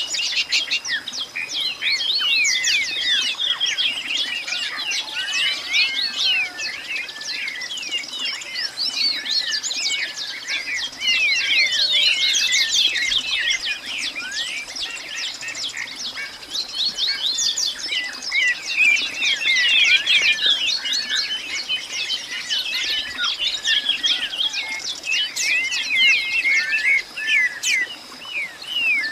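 A dense chorus of many birds chirping and calling at once, short quick notes overlapping without pause.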